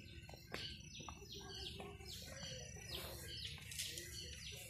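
Birds calling in the trees: a steady run of short, downward-sliding chirps, about three a second, from more than one bird. A single sharp click comes about half a second in.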